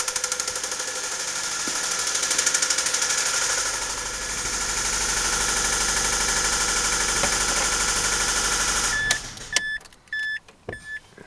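2004 Mazda 3's 2.3-litre four-cylinder engine running with a rhythmic rod knock from a spun number one rod bearing. It speeds up about two seconds in and runs steady, then shuts off suddenly about nine seconds in. A repeated electronic beep follows.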